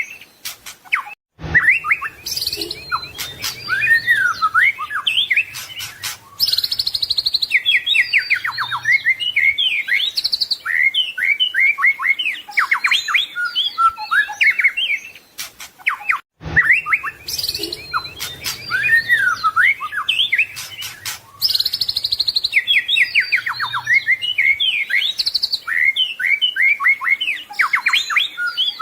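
White-rumped shama (murai batu) singing a loud, varied song full of mimicked phrases: rapid trills, sliding whistles and chattering notes. The same stretch of song, about fifteen seconds long, plays twice, each time after a brief silent break.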